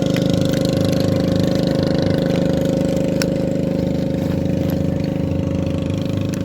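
A small engine idling steadily with an even pulsing beat. The sound cuts off abruptly near the end.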